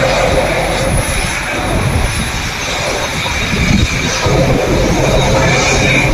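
Boeing 787-8 airliner's GEnx jet engines running at taxi idle, a steady rumble with a high whine as it rolls into its parking spot.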